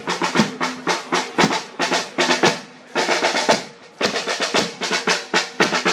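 Marching drums, snare and bass drum, beating a parade rhythm with rapid snare rolls. The drumming breaks off briefly twice, a little before and a little after halfway.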